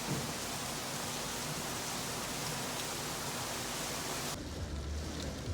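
Heavy tropical-storm rain, a steady even hiss that cuts off suddenly after about four seconds.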